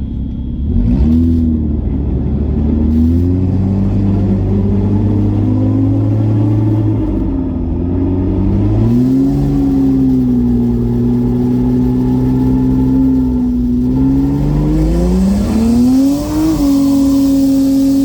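BMW N54 inline-six, converted to a single Precision 6466 turbo and running 17 psi, accelerating hard. Its pitch climbs, steps down at gear changes and climbs again, with a sharp drop about sixteen seconds in.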